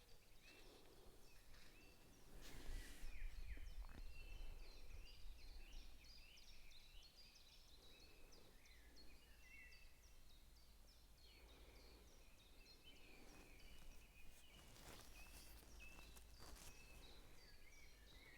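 Faint outdoor birdsong: several small birds chirping and twittering. A low rumble rises for a few seconds near the start, and there are a few soft rustles.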